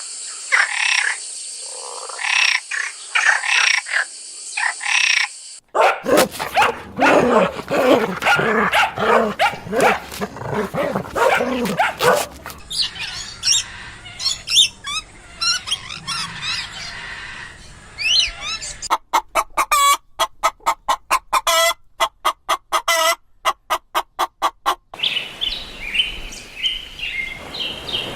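A succession of animal calls, mostly birds: chirping and other pitched calls, then a fast run of short repeated calls about two-thirds of the way through, then more chirping.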